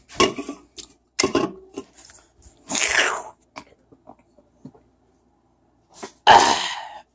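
A person's mouth and throat sounds: several short breathy bursts, the longest about three seconds in and the loudest near the end.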